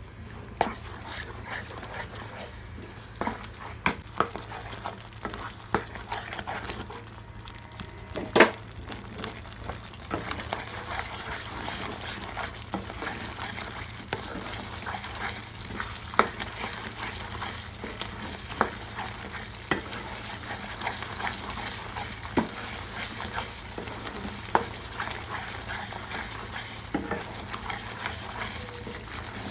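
Chicken and masala paste sizzling in a pan on full flame while being stirred and fried (bhuna) with a spatula, which knocks and scrapes against the pan again and again; the loudest knock comes about eight seconds in.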